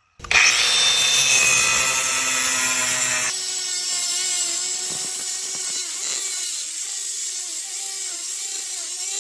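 Angle grinder fitted with a 6-inch Bad Dog HD II cutting and grinding disc, running under load against a workpiece. It starts abruptly with a loud, dense noise. About three seconds in it changes suddenly to a thinner hiss with a wavering whine.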